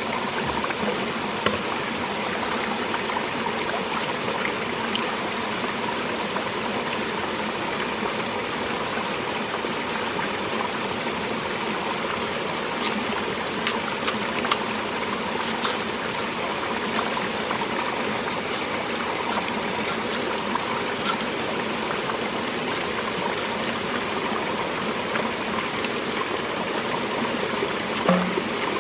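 Steady sound of running water, with a few faint ticks over it in the second half.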